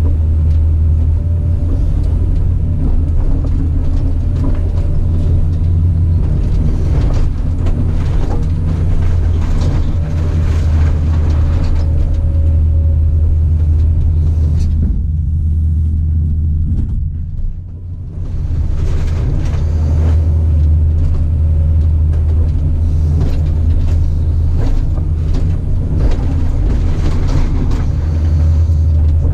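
Caterpillar 973C track loader's diesel engine running steadily with a heavy low rumble, mixed with repeated clanks and clatter from the machine at work. Just past halfway the clatter drops away and the sound eases briefly before picking back up.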